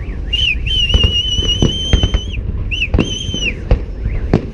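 Fireworks display: repeated sharp bangs and crackles over a continuous low rumble. A high, steady whistle sounds twice, once for about two seconds and again briefly after a short gap.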